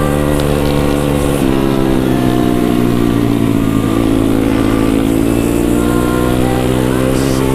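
Pit bike engine running under way. The engine note shifts abruptly about one and a half seconds in, then dips and slowly climbs again.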